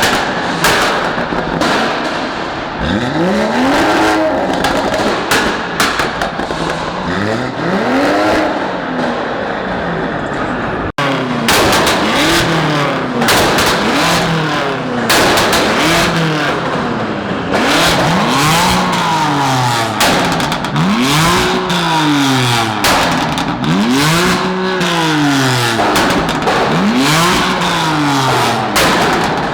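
Car engines revving over and over, each rev rising in pitch and dropping back, coming about once every two seconds in the second half.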